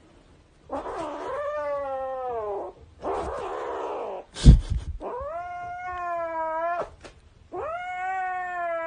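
An animal giving three long, drawn-out yowling calls, each sagging a little in pitch before it stops. A breathy rasp comes between the first two, and a sharp thump, the loudest sound, follows about halfway through.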